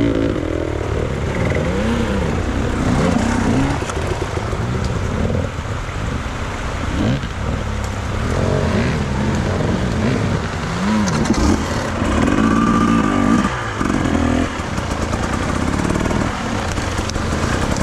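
Enduro motorcycle engine revving up and down again and again, its pitch rising and falling with each burst of throttle, over steady noise.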